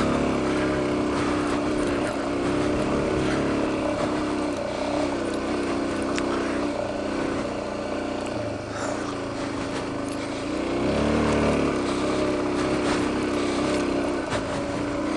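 Suzuki DR-Z400 single-cylinder four-stroke engine running under way on a trail, its note rising and falling with the throttle, with a brief rev-up a little past two-thirds of the way through.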